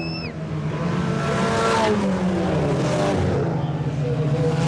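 Several four-cylinder IMCA Sport Compact race car engines running together, their pitches rising and falling as the cars go on and off the throttle, with a brief high falling squeal right at the start.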